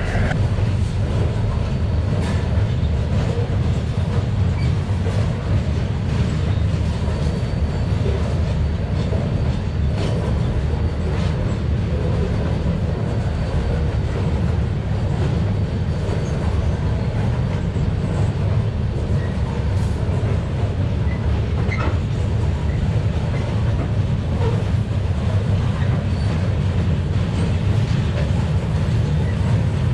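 Freight train of loaded steel-coil cars and flatcars rolling slowly past: a steady, loud, low rumble of wheels on the rails.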